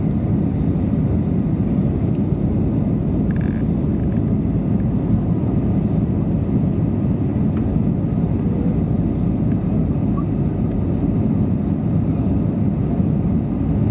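Steady low rumble of an Airbus A320neo's engines and airflow, heard from inside the passenger cabin.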